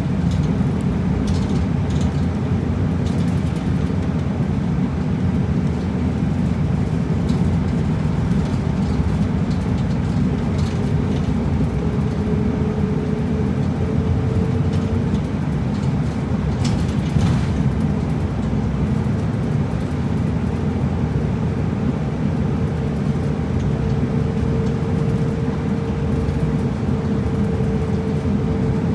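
Route bus driving, heard from inside the cabin: steady engine and road noise, with a thin whine that comes in about halfway and again later on, and a brief click or rattle a little past the middle.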